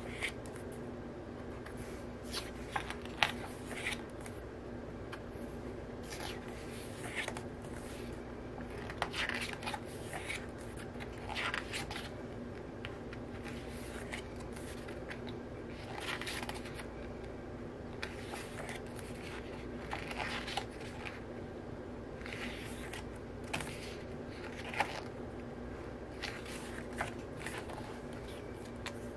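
Glossy paper pages of an album photobook being turned and handled: short, irregular rustles and light ticks every second or two, over a faint steady hum.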